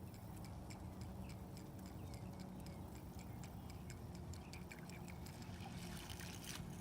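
Baitcasting reel ticking faintly as a topwater lure is reeled in, several irregular ticks a second, over a low steady hum.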